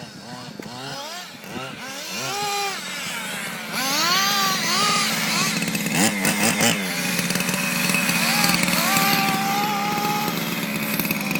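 Small nitro engines of several RC cars revving up and down in quick rising and falling whines, turning into a louder, steadier buzz about four seconds in.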